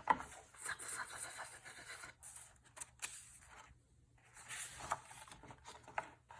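Faint rustling and light clicks of a paper picture book being handled as a page is turned.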